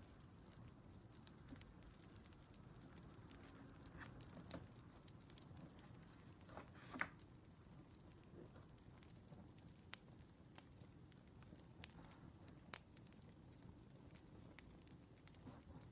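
Faint crackling wood fire: a soft low rumble of flames with scattered small pops and snaps, one louder snap about seven seconds in.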